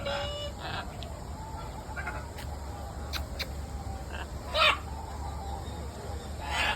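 Birds calling: a short call at the start, scattered brief calls, then the loudest call a little past the middle and another near the end, over a steady low hum.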